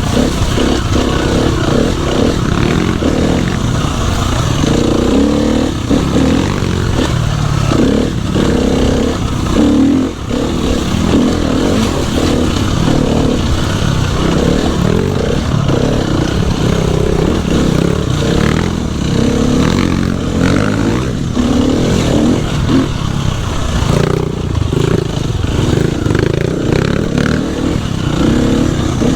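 Dirt bike engine running under load while being ridden along a trail, its revs rising and falling continually with the throttle. The revs drop briefly about ten seconds in.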